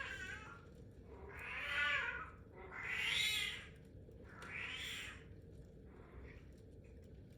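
A cat meowing: four drawn-out calls of about a second each, the second and third loudest, with a faint fifth call near the end.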